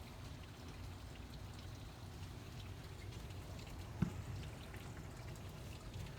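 Steady rain with scattered drops tapping close by, over a low, steady rumble. One sharper tap about four seconds in.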